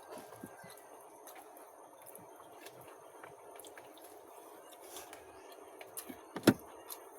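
Eating sounds: soft mouth noises and small clicks. One sharp knock about six and a half seconds in is the loudest sound.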